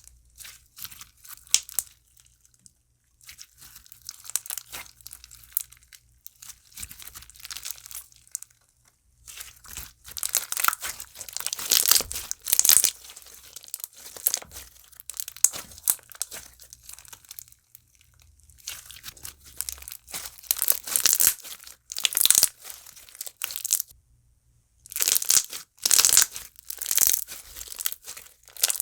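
Thick jelly cube slime full of small cubes being squished and stretched by hand, crunching and crackling in irregular bursts with brief pauses between.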